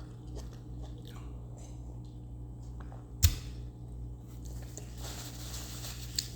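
Quiet mouth sounds of someone eating, soft chewing and faint clicks, over a steady low hum. One sharp knock a little over three seconds in is the loudest sound.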